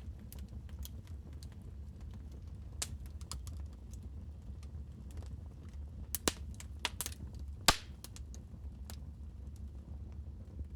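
Wood fire crackling in a fireplace: scattered small pops and snaps over a low, steady rumble, with a cluster of louder, sharper pops a little past the middle, the loudest just before the three-quarter mark.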